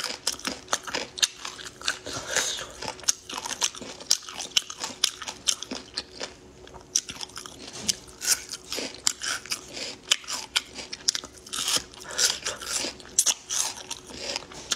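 A person biting and chewing spicy marinated meat snacks, with many quick irregular crunches and mouth clicks. A faint steady hum runs underneath.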